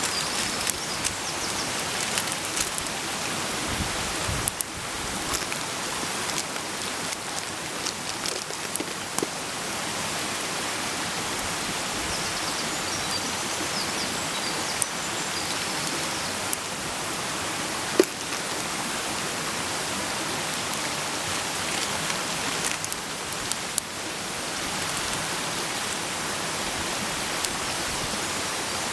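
Campfire cooking: a steady hiss with scattered sharp crackles and pops, one louder pop about two-thirds of the way through.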